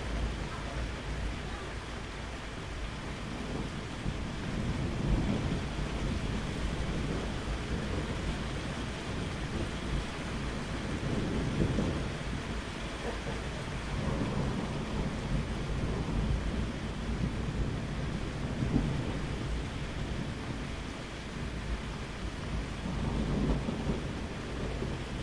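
Steady rain with rolling thunder: low rumbles swell and fade several times under the even hiss of the rain.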